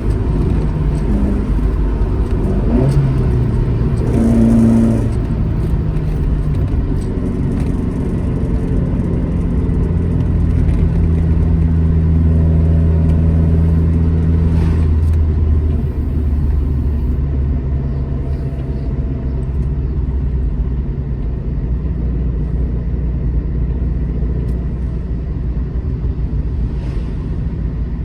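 Alfa Romeo GT Junior's twin-cam four-cylinder engine under way, its note stepping through gear changes in the first few seconds, then pulling steadily before easing off just past halfway.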